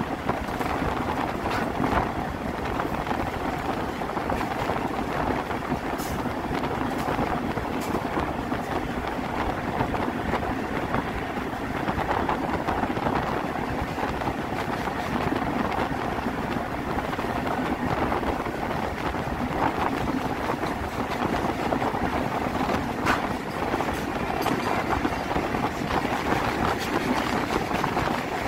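Steady running noise of electric goods-train locomotives moving side by side on parallel tracks, heard from a locomotive's open cab window, with a few faint clicks of wheels on the rails.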